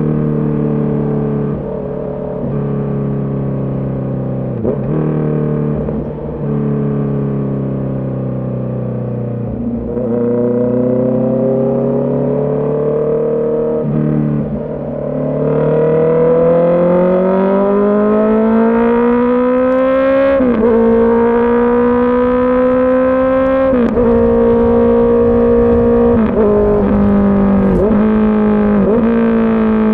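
Honda CB650R's inline-four engine under way. The revs sink slowly over the first ten seconds, then climb steadily for several seconds under throttle. After that the engine holds a fairly steady pitch, broken by a few brief dips in revs.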